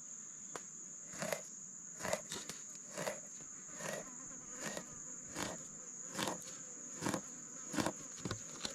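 Steady high-pitched insect drone, with soft knocks repeating at a fairly even pace a little over once a second.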